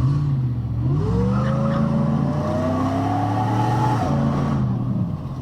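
Car engine accelerating hard from a standstill, heard from inside the car: the engine note rises steadily, drops sharply about four seconds in as the gear changes, then holds and eases off near the end.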